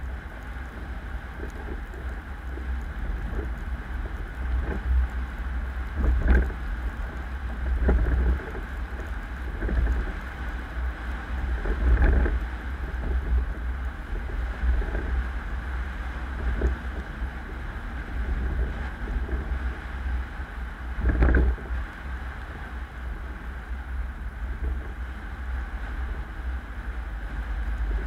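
Car on the move: a steady low road-and-engine rumble with wind noise on the microphone, swelling louder several times, as over bumps in the road.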